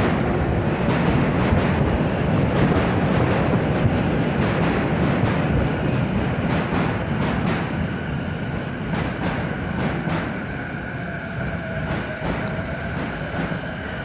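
Sagami Railway 12000 series electric train running on the rails with a steady rumble and wheel clatter. It grows somewhat quieter in the second half as thin, high wheel or brake squeal tones come in.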